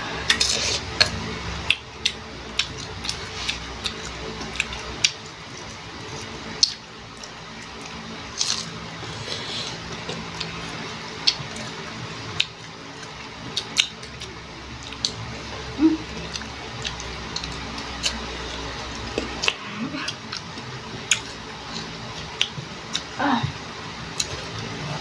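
Close-up crunching bites and wet chewing of raw green mango, with sharp crisp snaps and lip smacks at irregular intervals. A brief voiced sound near the end.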